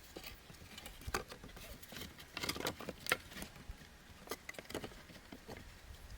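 Irregular light clicks and rustling, several sharper clicks among them.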